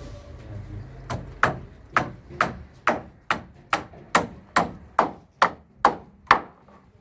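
A hand tool striking repeatedly on a building site: about thirteen sharp blows at a steady two or so a second, starting about a second in.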